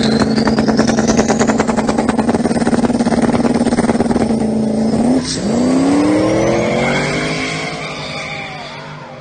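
A pickup truck and a car held at high, steady revs side by side at the start of a drag race, the engine note pulsing rapidly, with a high whine rising over the first two seconds. About five seconds in they launch: the engine pitch climbs steeply as they accelerate away, and the sound fades with distance.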